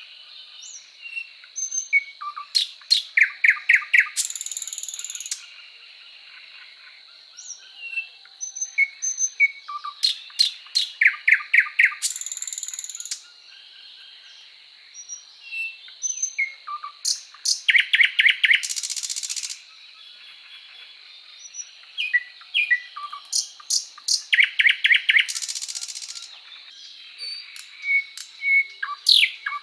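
A songbird singing the same phrase over and over, about every seven seconds: a few separate chirps, a fast run of notes, then a harsh buzzy note. A thin steady high whine runs behind it.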